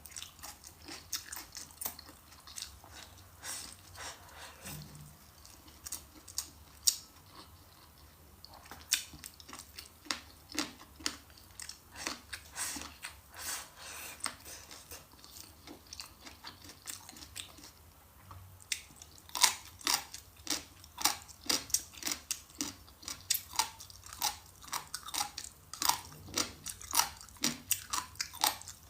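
Close-miked chewing and crunching of food, a steady stream of sharp, crisp crunches and mouth sounds that grows denser and louder about two-thirds of the way through.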